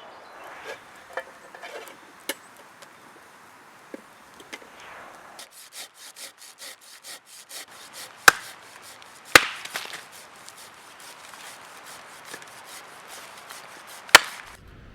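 Wood being sawn by hand with quick, even strokes, then three sharp, loud knocks of wood being struck. Lighter clicks and knocks of wood being handled come before the sawing.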